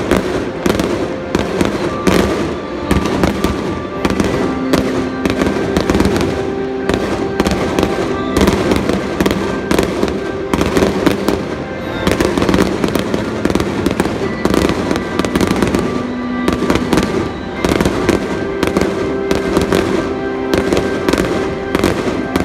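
Fireworks display: aerial shells going off in a dense run of bangs and crackles, with music playing along.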